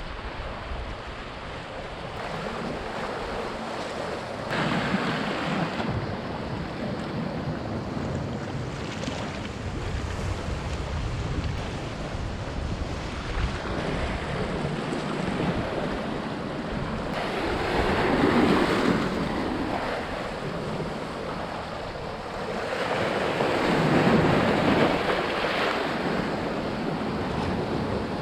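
Sea waves washing in, with the noise swelling three times as larger waves come in, over wind buffeting the microphone.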